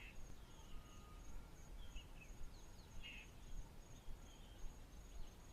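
Faint outdoor ambience: an insect chirping in a steady, rapid, high-pitched pulse throughout, with a few faint, short bird chirps.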